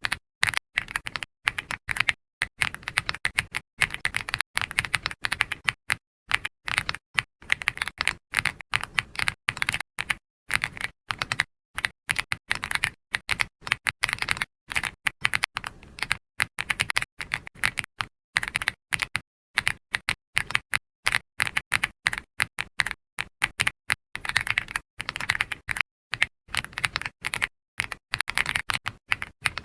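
Computer keyboard typing: quick runs of soft key clicks with short pauses between bursts.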